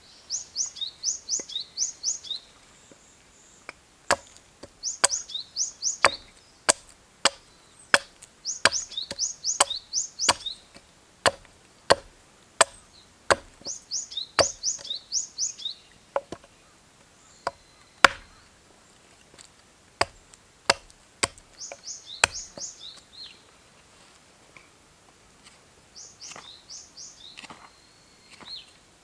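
Wood being chopped with sharp, irregular strikes, roughly one a second with short pauses. A songbird sings a repeated phrase of quick, high, falling notes every few seconds.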